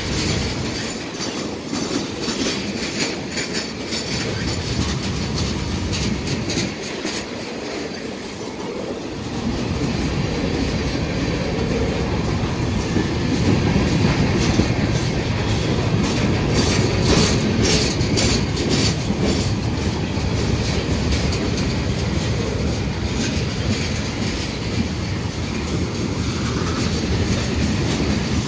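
CN freight train's cars rolling past close by: a steady rumble of steel wheels on rail, with repeated clicks as the wheels cross rail joints. The rumble grows fuller and louder about a third of the way in.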